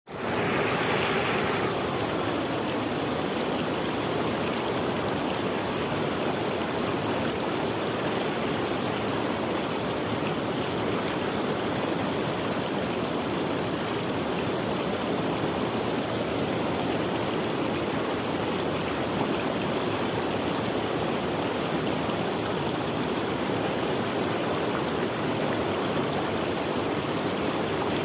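Running water of a stream, flowing with a steady, unbroken rush; slightly brighter and hissier for the first second or so.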